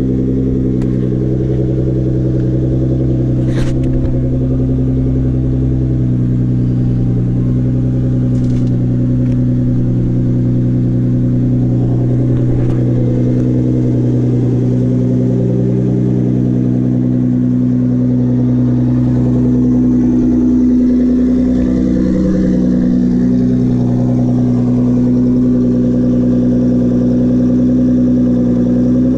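Nissan GT-R's twin-turbo 3.8-litre V6 idling steadily, with a few light clicks in the first half.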